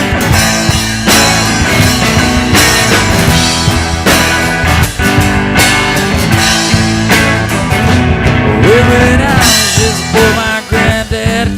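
Live band playing the instrumental lead-in to a song, with electric guitar and a drum kit keeping a steady beat; some bending guitar notes come in near the end.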